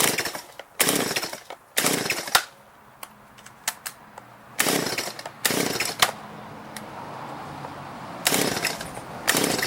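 STIHL MS170 two-stroke chainsaw engine running, revved hard in short bursts about seven times and dropping back to a lower idle between them. The saw has just been started after sitting unused for a year.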